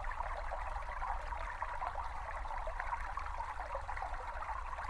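A small brook babbling and trickling steadily, with a low rumble underneath.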